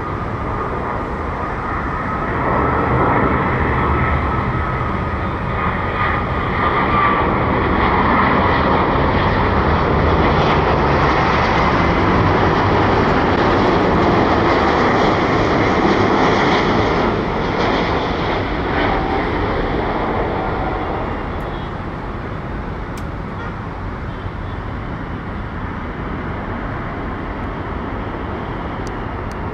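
Jet airliner passing close by: a broad engine rush that builds over a few seconds, holds loud, then fades away about two-thirds of the way through, with a faint whine near the start.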